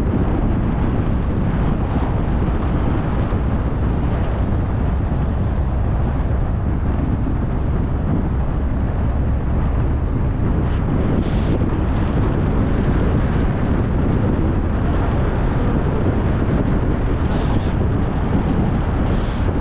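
Steady low road rumble from a moving car, with wind buffeting the microphone; a few brief hissing gusts come in the second half.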